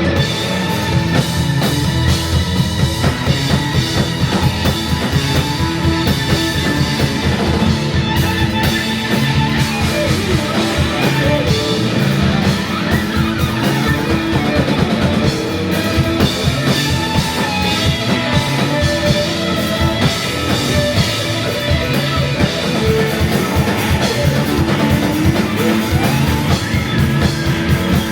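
A psychedelic rock band playing live with no vocals: steady drum kit under bass, electric guitar and electric violin.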